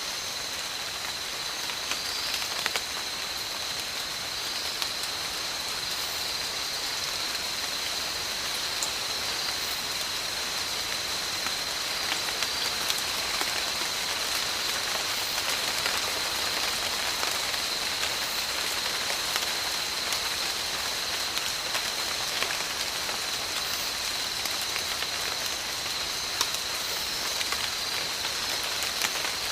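Steady tropical rain falling, an even hiss with scattered sharper drop ticks, under a constant high-pitched tone.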